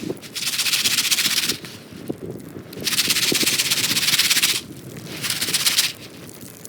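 Popcorn pan being shaken over a campfire in three bursts of rattling hiss, each one to two seconds long, with quieter gaps between.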